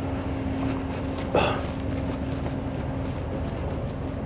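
Truck engine running steadily at idle, with a low steady hum that fades out about three seconds in. A short sharp noise about a second and a half in is the loudest moment.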